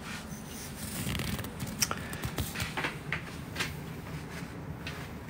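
Paper rustling, with scattered light clicks and knocks, as a fire is laid in a fireplace.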